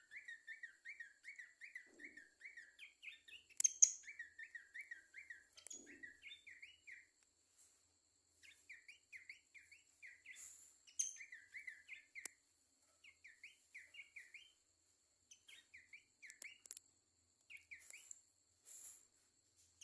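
An Abbott's babbler (pelanduk semak) singing in rapid runs of short repeated chirps, broken by brief pauses, with a few sharp clicks in between. A faint, steady high-pitched whine runs underneath.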